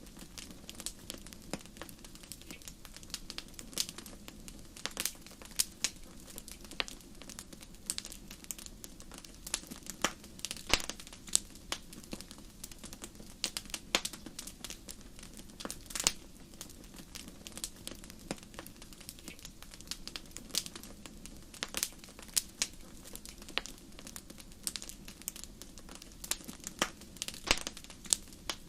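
Wood fire crackling in a fireplace: irregular sharp pops and snaps, a few every second, over a low steady background of the burning fire.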